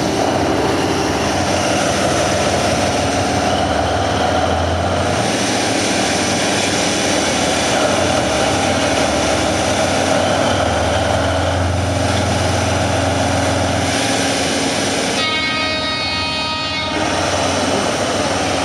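DF200 diesel-electric locomotive engine running under load as the train reverses slowly, its low hum swelling twice as the power rises. Near the end a steady multi-pitched tone sounds for about two seconds.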